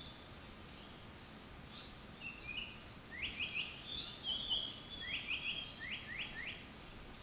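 Japanese paradise flycatcher singing: a few thin whistles, then, about three seconds in, quick runs of short rising notes in threes, repeated several times over a faint steady background hiss.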